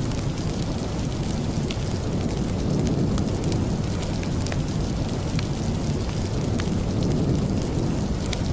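Steady rain with a deep, even rumble, sprinkled with scattered sharp ticks.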